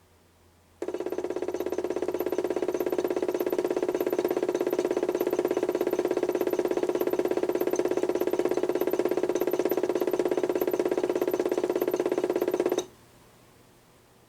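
A 775 DC motor driven by PWM turns the drum of a toy washing machine through a belt pulley. It runs with a steady whine and a fast, even pulsing, starting abruptly about a second in and cutting off abruptly near the end.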